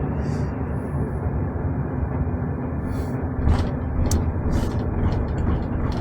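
Steady engine and road noise heard from inside a moving bus, with a few light rattles.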